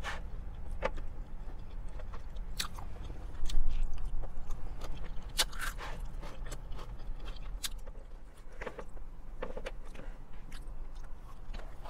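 Close-up chewing and crunching of vinegary coleslaw, shredded raw cabbage, with small clicks of a fork in a plastic tub. The crunching is loudest about three and a half seconds in.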